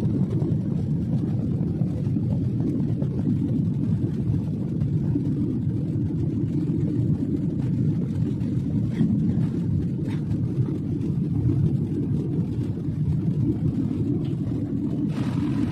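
Steady low rumble of a jet airliner's engines and rushing air, heard from inside the passenger cabin, with a few faint clicks.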